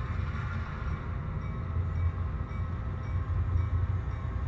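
Steady low rumble of a real BNSF train going by outside, heard from inside the house.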